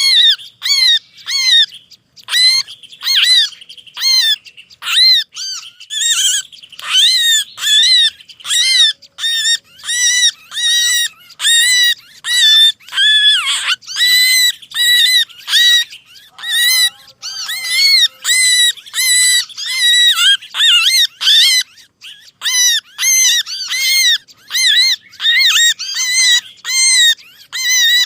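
Small songbirds' agitated, distress-type calls for luring birds in: strained, arching notes repeated about one and a half to two a second, several birds overlapping. A few lower squealing notes come in about two-thirds of the way through.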